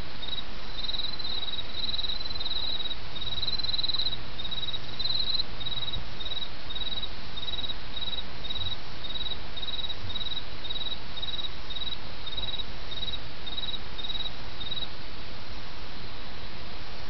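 Autumn crickets chirping in short repeated pulses, about two a second, with a second, slightly higher-pitched insect joining in the first few seconds; the chirping stops a couple of seconds before the end. Underneath runs the steady rush of a small stream.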